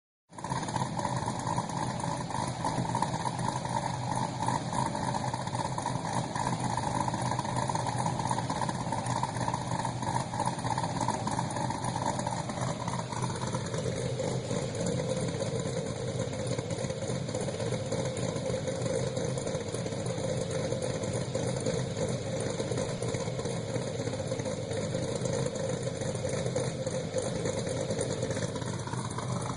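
2010 Camaro SS's LS3 6.2-litre V8 idling rough on a JRE rough-idle blower cam, breathing through long-tube headers and a Borla Touring cat-back exhaust.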